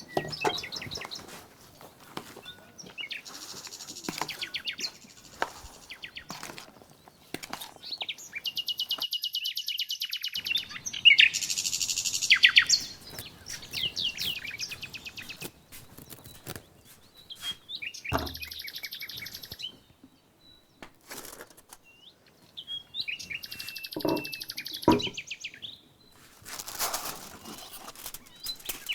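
Songbirds singing in quick, high chirping trills, several phrases a few seconds apart, loudest a little before the middle, with scattered light clicks and knocks in between.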